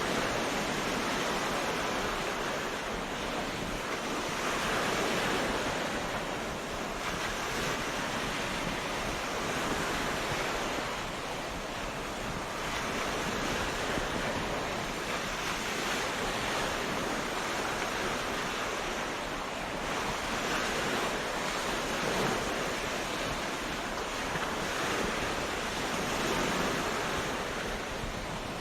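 Ocean surf washing onto a beach: a continuous rush of breaking waves that swells and eases every several seconds.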